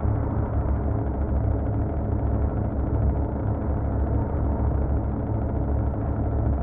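Truck engine running steadily at an even, low pitch, with no clear revving.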